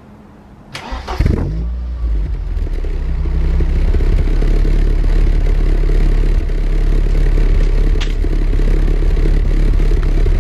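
Ford Escort RS2000's four-cylinder engine started through its Magnex stainless steel exhaust. About a second in it is briefly cranked and catches, then settles into a steady idle.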